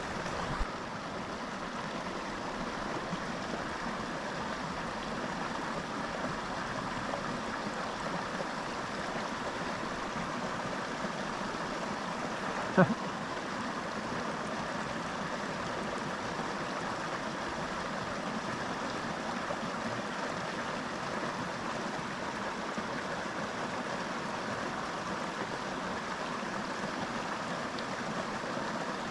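Small mountain creek flowing steadily, a constant rush of water. A single sharp knock sounds once, a little before halfway through.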